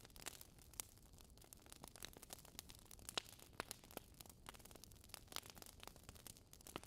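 Wood fire burning in a fireplace: soft steady hiss with irregular sharp crackles and pops from the burning logs, one louder pop about three seconds in.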